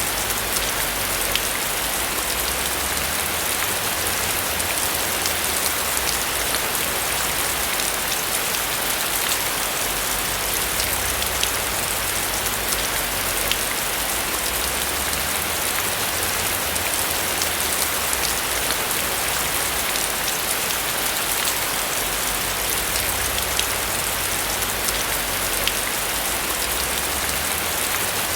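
Steady rain falling on a roof: a constant hiss of rain with many single drops ticking out, over a low rumble that swells and fades.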